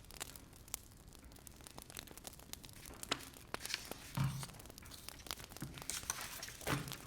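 Wood fire crackling, with many small irregular sharp pops. There is a louder, duller knock about four seconds in and another near the end.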